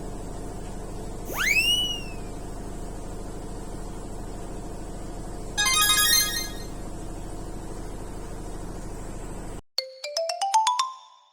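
Short electronic tones over a steady background hum. About a second and a half in there is a quick sliding whistle-like glide, then a brief chiming jingle, and after a sudden cut to silence a fast run of rising beeps.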